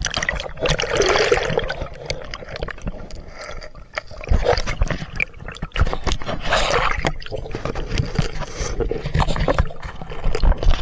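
River water splashing and sloshing close by as someone swims, with two louder splashy stretches: one near the start and one about two-thirds of the way through.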